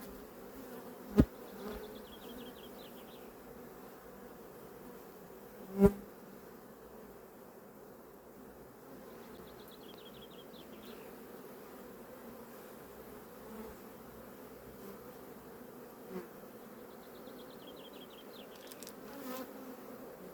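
Honeybee colony buzzing steadily around an open hive, with two sharp knocks, about a second in and about six seconds in, and a fainter one later.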